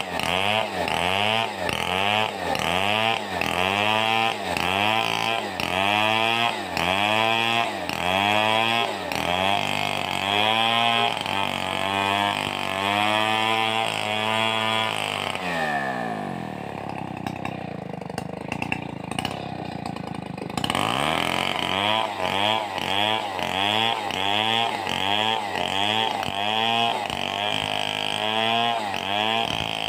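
Stihl 038 two-stroke chainsaw cutting under load, its engine speed rising and falling about twice a second. About halfway it drops to idle for several seconds, then throttles back up and resumes the same rhythmic cutting.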